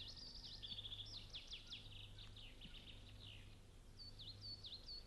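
Faint birdsong: a run of quick chirps and sweeping notes with a short trill, then near the end three repeated whistled notes that each dip in pitch, over a low steady hum.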